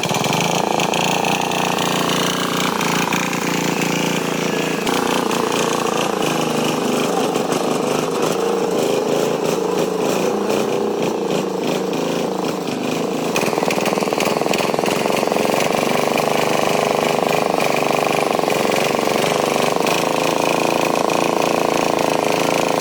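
Tractor engine running steadily, its note shifting about five seconds in and again about thirteen seconds in.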